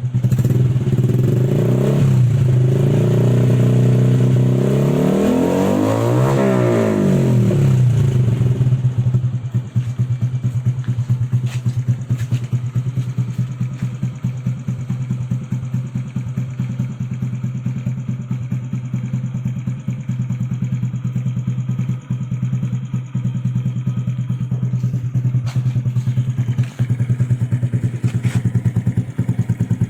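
Honda Blade 125 FI's single-cylinder four-stroke engine through an aftermarket Proliner racing exhaust, revved in the first eight seconds with the highest rev about six seconds in, then settling to a steady idle.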